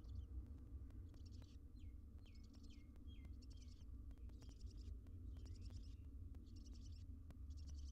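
Bird calls: a series of short, high, buzzy chirps repeating a little more than once a second, a few with a downward-sliding chirp, over a steady low electrical hum.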